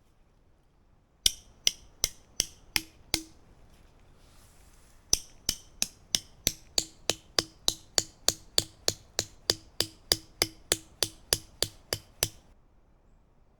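Hammer blows struck at a steady pace, about two and a half a second: a run of six, a short pause, then about twenty more, each with a short ring.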